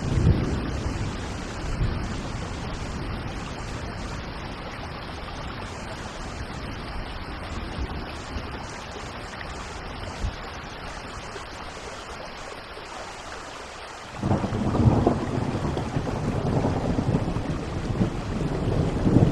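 Steady rain with thunder. A low rumble comes at the start, then a louder rolling thunderclap breaks in about fourteen seconds in and keeps rumbling.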